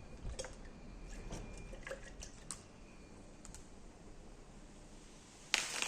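Scattered light clicks and ticks, then near the end a sudden loud hiss.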